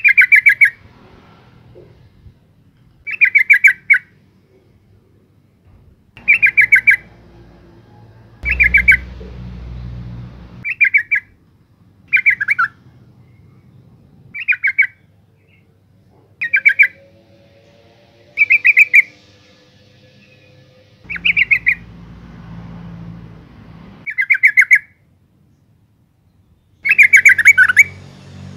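Female yellow-vented bulbul calling. Short bursts of fast, harsh chattering notes repeat about every two to three seconds, about a dozen in all. A faint low rumble sits in the background at times.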